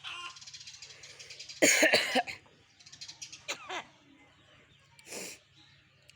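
Pet myna calling: a rapid rattling chatter, then a loud harsh burst like a mimicked cough about two seconds in, a falling whistled note, and another short harsh burst near the end.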